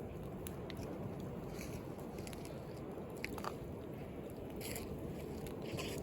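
Wood bonfire crackling, with irregular sharp pops and snaps over a steady low rush of sea waves.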